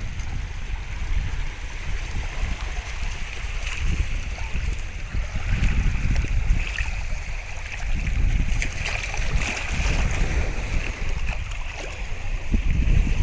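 Wind buffeting the microphone over a steady wash of moving water, with gusts that swell and fade.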